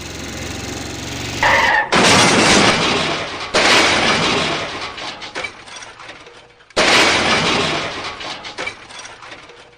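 Three cartoon crash sound effects with breaking, shattering glass, each loud at the start and dying away over a second or two. They follow a steady machine hum that stops about a second and a half in.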